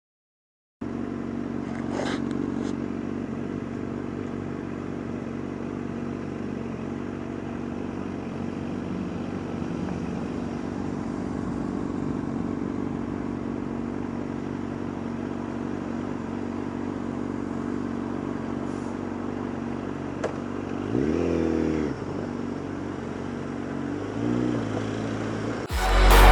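Motorcycle engine running steadily, starting about a second in, with a short rise and fall in pitch about 21 seconds in as it revs. Electronic music comes in loudly right at the end.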